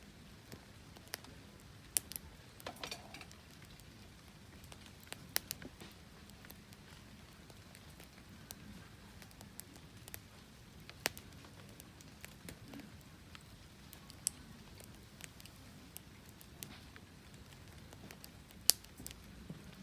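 Wood fire burning, crackling quietly with sharp pops at irregular intervals, the loudest pop near the end.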